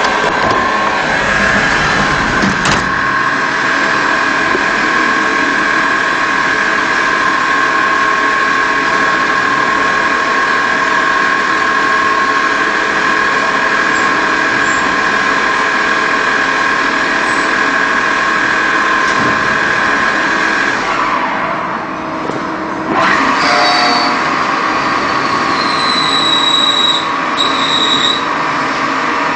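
CNC polygon lathe running and cutting, a steady machine whine over dense mechanical noise. About three quarters of the way through the sound dips and changes, and high squealing tones follow near the end.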